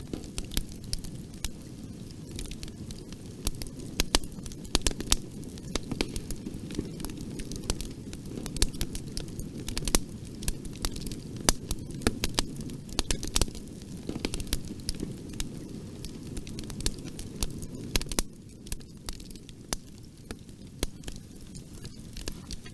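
Wood fire in a fireplace crackling: many irregular sharp pops and snaps over a steady low rumble of burning. The pops thin out for the last few seconds.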